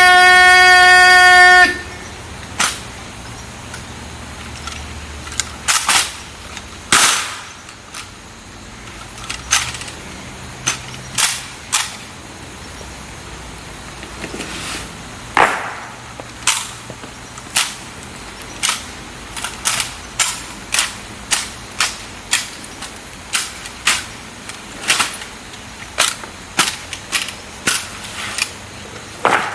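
Ceremonial honor-guard rifle drill: a series of sharp, separate cracks and knocks, rifle butts stamped down and rifles slapped, coming irregularly about a second apart. A loud steady horn-like tone cuts off about two seconds in.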